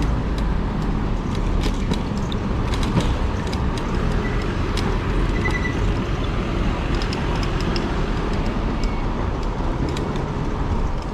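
Steady low rumbling noise of riding an e-bike, from wind on the microphone and road noise. Scattered light clicks and rattles run through it.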